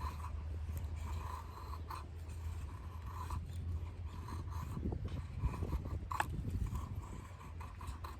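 Irregular scraping strokes of a blade on wood, typical of a knife shaving curls from a feather stick, over a steady low rumble.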